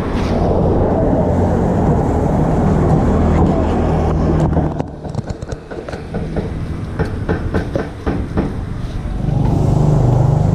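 A motor engine running steadily, dropping away about four and a half seconds in; a run of sharp clicks and knocks follows, and the engine hum comes back near the end.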